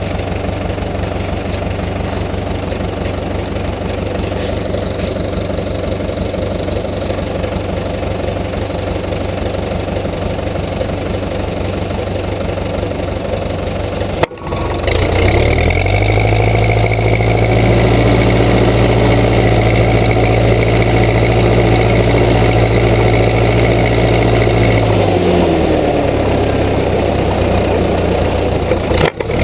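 Case 580B backhoe engine running slowly and steadily. After a brief break about halfway through, it speeds up, holds a higher steady speed, then slows back down near the end.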